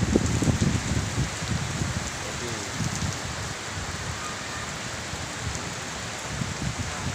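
Rain falling steadily: an even hiss of rain on surfaces.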